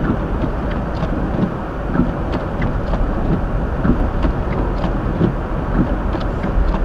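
Cabin road noise of a 2023 Hyundai Elantra driving slowly on a snow-covered road: a steady low rumble of tyres on snow and slush, with scattered small ticks and knocks.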